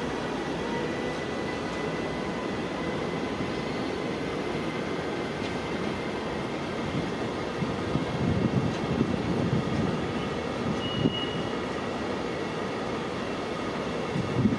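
Train running on the track: a steady rumble with faint thin high whines, and a louder stretch of uneven knocks about eight to ten seconds in.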